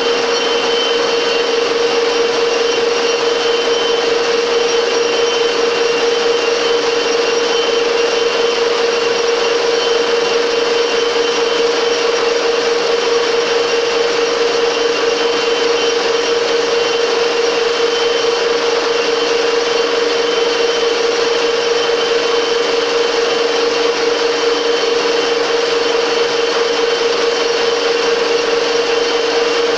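Metal lathe running steadily while turning a part, a constant whine with a steady cutting hiss as the tool takes a light cut.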